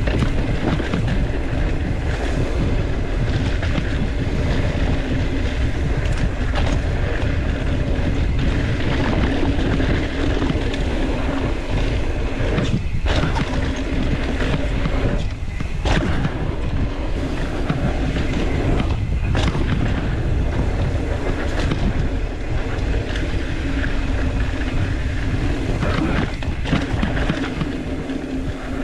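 Wind rushing over the microphone and dirt-trail rolling noise from a mountain bike on a descent, a steady loud rush.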